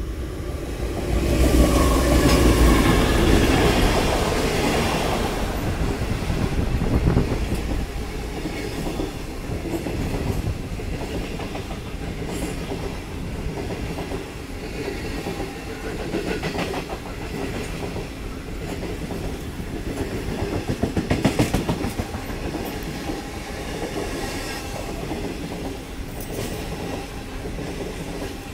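The Indian Pacific passenger train passing close by. The Pacific National diesel locomotive's engine rumbles loudest in the first few seconds as it goes past. Then the long rake of stainless-steel carriages rolls by with a steady clickety-clack of wheels over rail joints, with a louder run of clacks about twenty seconds in.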